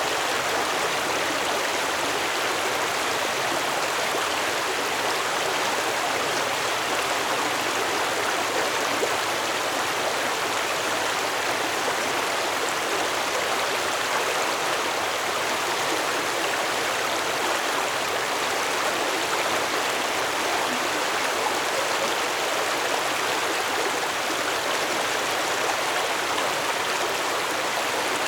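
Stream water flowing and splashing in a steady rush, with no bass to it.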